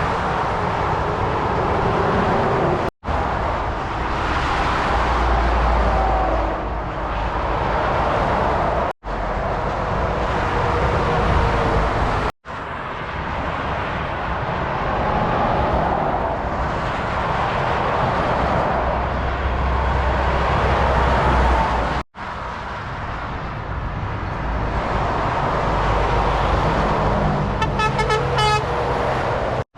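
Lorries and traffic passing at motorway speed: continuous tyre and engine noise with a low rumble, cutting off abruptly four times between spliced clips. Near the end a horn sounds briefly with a pulsing tone.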